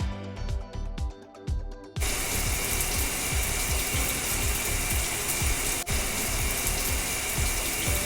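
Cartoon background music with a steady beat; about two seconds in, a loud steady hissing sound effect joins it and cuts off suddenly near the end.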